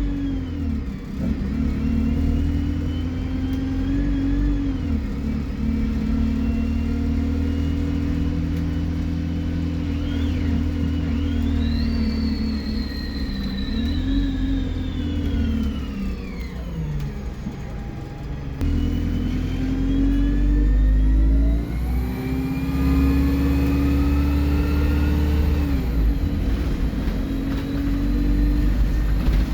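Alexander Dennis Enviro 200 single-decker bus engine pulling away and accelerating, its note rising and dropping back several times as the gearbox changes up, with a loud turbo whistle climbing and falling in pitch with each pull.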